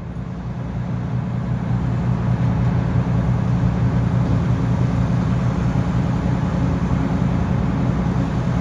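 Diesel engine of a boat moving a log barge, running steadily with a low drone and water noise, growing louder over the first couple of seconds.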